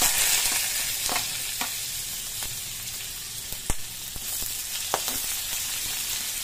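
Ginger strips sizzling in hot rendered pork fat in a steel wok, the hiss strongest at first and easing off, while a metal spatula stirs and clinks against the wok a few times.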